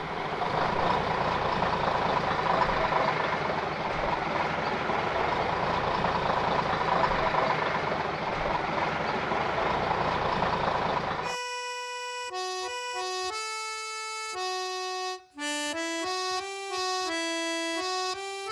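Traffic noise, a dense steady rumble and hiss, which cuts off abruptly about eleven seconds in. Accordion music then plays a stepping melody.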